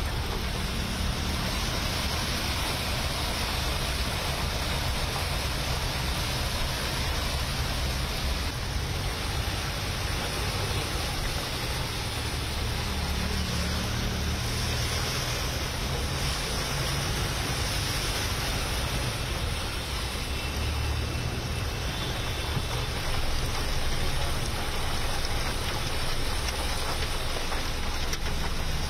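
Heavy rain pouring down in a steady hiss over a continuous low vehicle engine rumble, with water washing around as a car drives through a flooded street.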